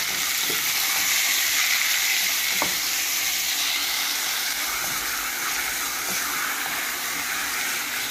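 Marinated goat liver sizzling as it fries with browned onions in a pan, stirred with a wooden spoon: a steady frying hiss with a few light knocks of the spoon against the pan.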